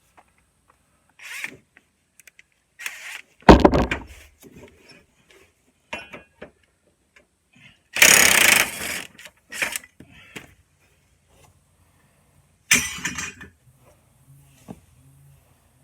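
Work on a riding mower deck: a heavy thump a few seconds in, then short bursts of power-tool noise, one lasting about a second near the middle and a shorter one near the end.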